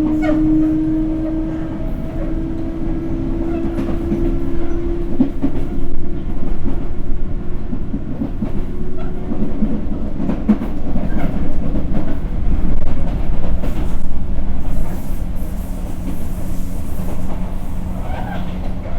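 Sotetsu 8000 series train running, heard from inside the car: steady rail rumble with wheels knocking over rail joints in pairs, and a steady electric whine from its Hitachi GTO-VVVF traction drive that fades out over the first half.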